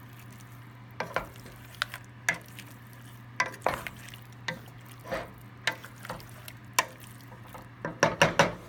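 A utensil stirring chicken and shrimp in a thick, creamy Alfredo sauce in a pan: irregular scrapes and clinks against the pan, with a quick run of them near the end.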